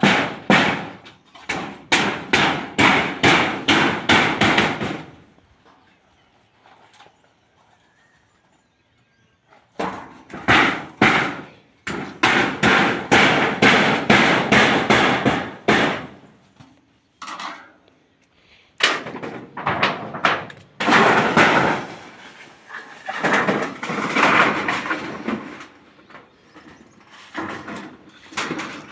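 Hammering on corrugated iron roofing sheets: quick runs of metallic hammer blows, about three a second, each run lasting several seconds with short pauses between, as the sheets are nailed down.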